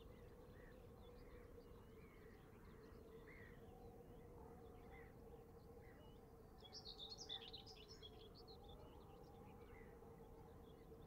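Faint ambience of scattered bird chirps over a steady low hum, with a short flurry of chirping about seven seconds in.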